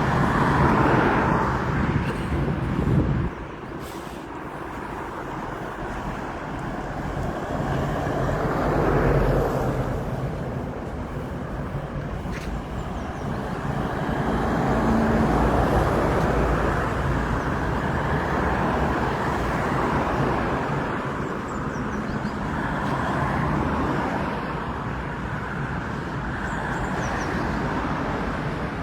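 Road traffic: cars passing one after another, each swelling and fading over a few seconds, over a steady background of road noise.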